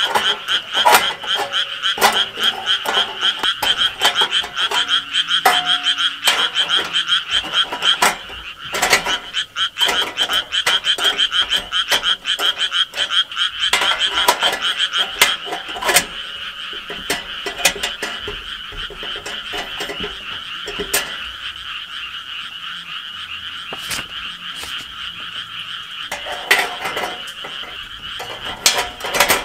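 A dense chorus of frogs croaking continuously in a fast, rattling pulse, with irregular sharp clicks and clinks over it.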